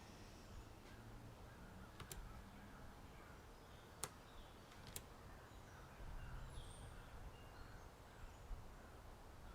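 Faint background of distant birds chirping over a low wind rumble, with three single sharp clicks spread through it.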